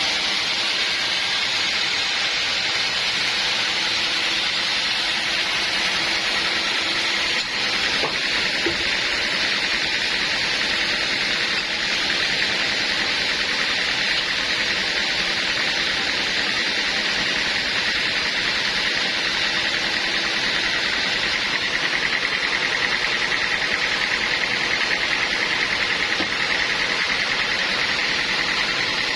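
Sawmill saw running through an acacia log: a steady, loud, high-pitched cutting noise that goes on without a break.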